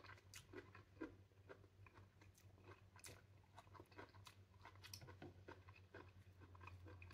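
Faint chewing of pink pomelo flesh: soft, irregular wet clicks and crunches, with a low steady hum underneath.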